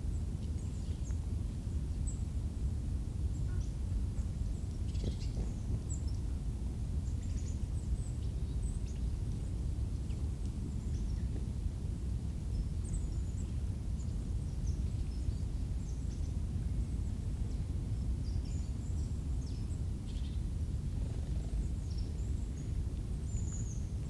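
Small woodland birds giving short, high chirps and squeaks scattered throughout, over a steady low rumble.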